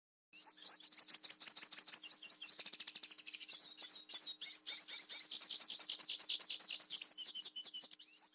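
Female Belgian canary singing a long, continuous run of fast, high trilled notes, several notes a second with changing phrases. She sings this much when she is ready to brood, by the breeder's account.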